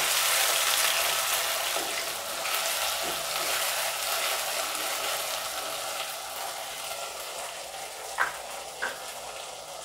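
Chopped tomatoes and shallots sizzling in hot oil in a nonstick kadai, stirred with a wooden spatula; the frying hiss eases off gradually toward the end.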